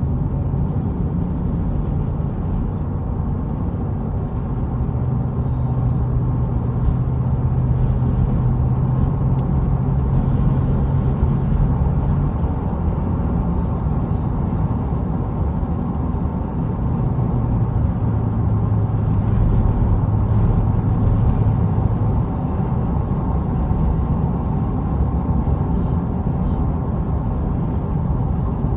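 A vehicle's steady low rumble, with a low droning hum that comes in twice, for several seconds each time. This is the unexplained noise the owner is asking about.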